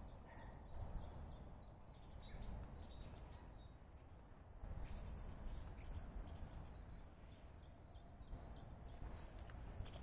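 Small songbirds chirping and singing in the trees, with many short, high, quickly falling notes throughout, over a low steady background rumble.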